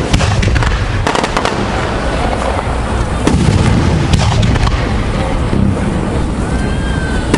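Aerial fireworks display: a dense, continuous run of deep booms from shells bursting, mixed with many sharp crackling cracks.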